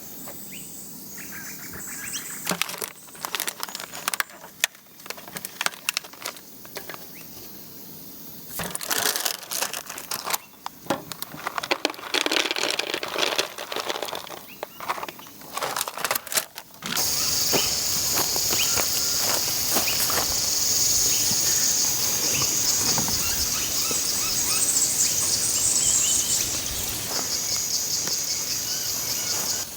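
Scattered rustling, crackling and clicking handling sounds. About halfway through, these give way abruptly to a steady, loud, high-pitched insect drone that pulses rhythmically near the end.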